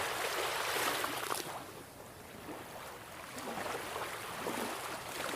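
Ocean waves washing in, a rushing hiss that swells and ebbs, strongest at the start and again about a second in.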